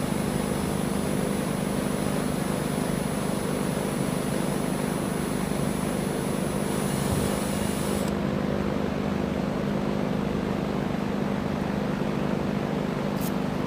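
Electric drill motor running steadily, drilling into the steel rear trunnion, with a thin high whine that stops about eight seconds in.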